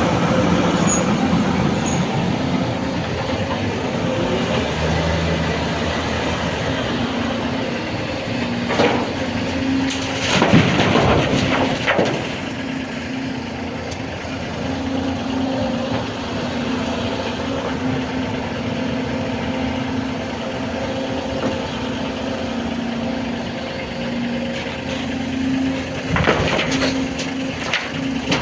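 Diesel engine of a 2020 Volvo EC250ENL tracked excavator running steadily with a constant low hum, with short bursts of clatter about a third of the way in and again near the end.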